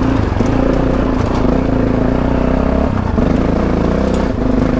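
Adventure motorcycle engine running hard under throttle up a steep rocky climb, its note dipping briefly about three seconds in and again near the end as the throttle is eased and picked up. Light clatter of stones under the tyres.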